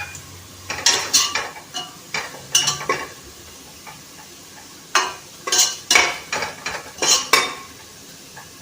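Metal spoon scraping and clinking against a frying pan in several short clusters as fried onions are stirred and scooped out, with a faint sizzle of oil underneath.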